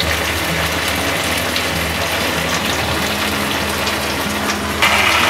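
Mashed boiled tapioca frying in hot oil in a pan, a steady sizzle that gets a little brighter near the end.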